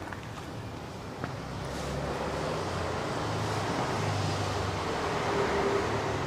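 A steady rushing noise with a low hum, growing louder about two seconds in and staying up.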